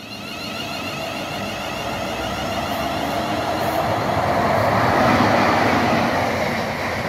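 Electric locomotive hauling a container freight train through the station at speed, alongside an electric multiple unit on the near line: a rush of wheels on rail and moving air that grows louder to a peak about five seconds in as the locomotive goes by close.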